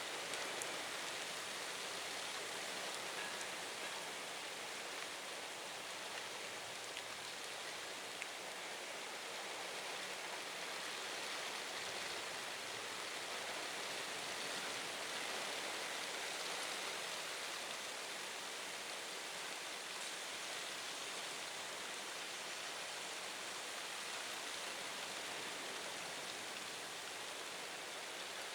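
Heavy typhoon rain falling steadily: an even hiss of rain with no breaks.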